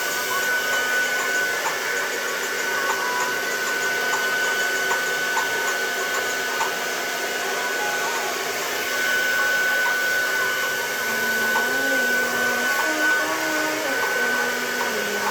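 Handheld hair dryer running steadily, a rush of air with a high, steady whine, as hair is blow-dried straight.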